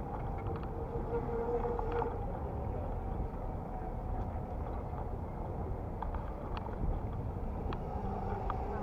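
Electric bicycle on the move: a steady low rumble of riding noise, with a steady hum over the first two seconds and a few faint clicks.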